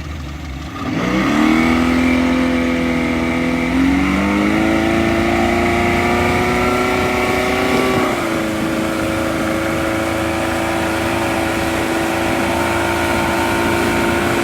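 Wakeboard tow boat's engine throttling up from low speed: its pitch rises sharply about a second in and climbs again around four seconds, then eases back slightly near eight seconds and holds a steady cruising note.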